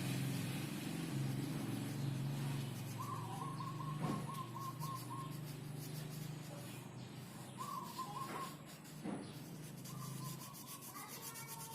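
Colouring strokes rubbing on paper over a steady low hum, with a bird trilling briefly three times in the background.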